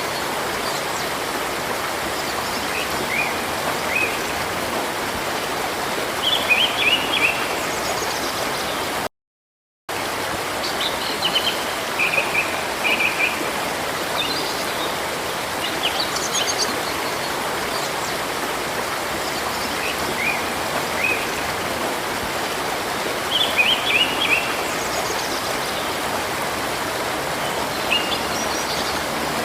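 Steady rush of flowing river water with songbirds chirping in short bursts every few seconds. The sound cuts out completely for about half a second around nine seconds in.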